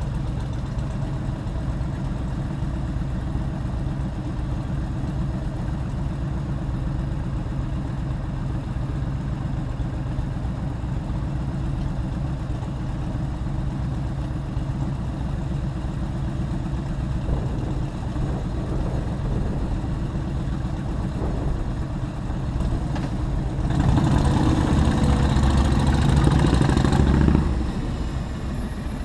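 Motorcycle engine running steadily, with a louder surge of engine and road noise lasting about three seconds near the end.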